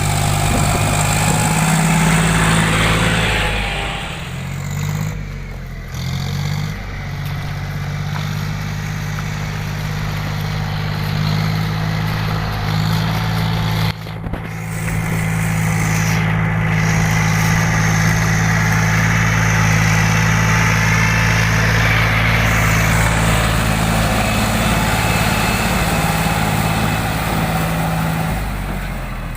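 John Deere 5050D tractor's three-cylinder diesel engine running steadily, its pitch wavering briefly about four to seven seconds in. There is a sharp click about halfway through, and the engine note fades out near the end.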